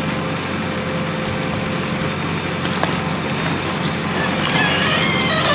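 JCB 3DX Plus backhoe loader's diesel engine running steadily, with a constant drone.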